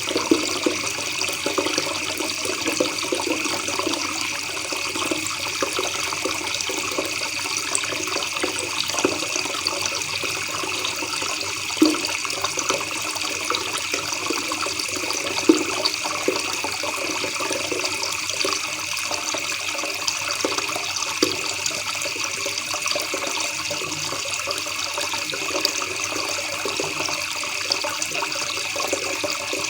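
Shallow river water babbling and gurgling steadily over stones, with a couple of slightly louder splashes about 12 and 15 seconds in.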